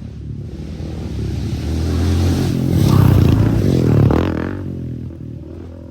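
Dirt bike engine approaching fast, getting louder to a peak about three to four seconds in as it passes close overhead on a jump, with its pitch dropping as it goes by, then fading away.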